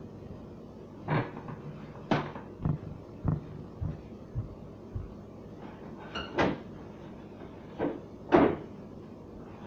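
A string of short knocks and clunks from refrigerator door shelves and parts being handled while the door is wiped clean, with louder knocks about six and eight seconds in.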